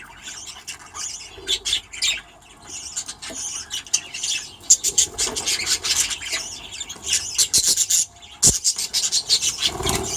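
Budgerigars chattering: a flock's many quick, high chirps and warbles overlapping, growing busier about halfway through.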